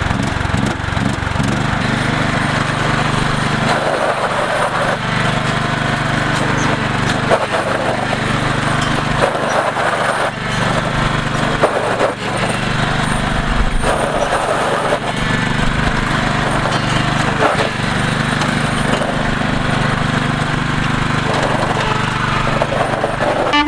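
MTD lawn tractor engine running steadily while the tractor is driven, with scattered knocks and rattles.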